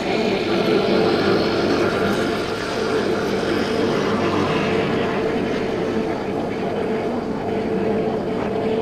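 Small 50cc motorbike engine running steadily under way, a constant engine drone mixed with road and wind noise.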